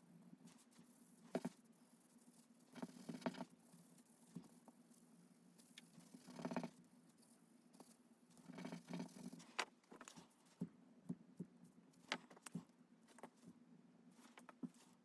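Faint scratchy strokes and short taps of a drawing tool on paper, coming in irregular clusters over a steady low hum.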